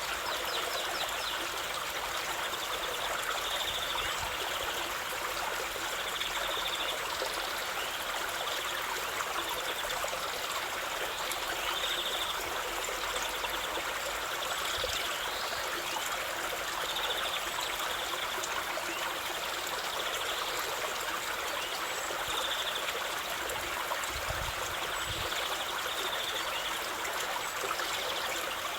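Stream water flowing steadily over rocks, with short high chirps every few seconds.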